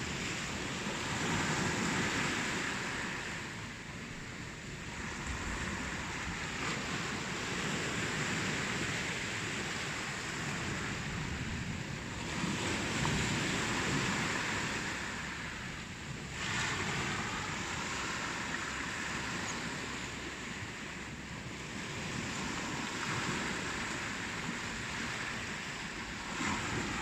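Ocean waves breaking and washing on the shore, a continuous rush of surf that swells and eases every few seconds.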